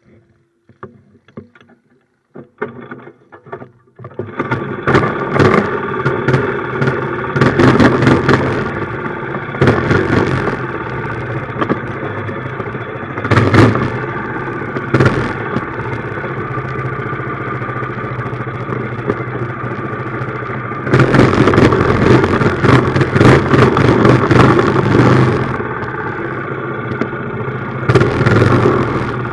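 A few faint clicks and knocks, then about four seconds in a minibike's small engine starts abruptly and runs. It is revved in short bursts several times, with a longer stretch at high revs about three-quarters of the way through and another rise near the end.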